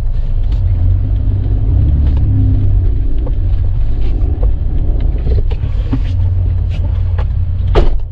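Motor vehicle running with a steady low rumble, with a brief louder sound near the end.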